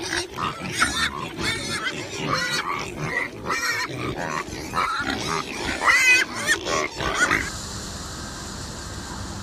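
A group of pigs squealing and grunting in many short, wavering, high-pitched calls. About seven seconds in, this gives way suddenly to a steady hiss.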